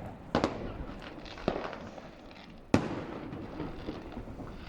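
Distant New Year's fireworks: three separate bangs about a second apart, each trailing off, the third the sharpest, over a steady crackle of further launches and bursts.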